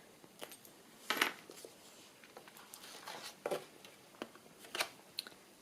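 Paper and card being handled on a tabletop during journal crafting: scattered light rustles and clicks, the loudest rustle about a second in.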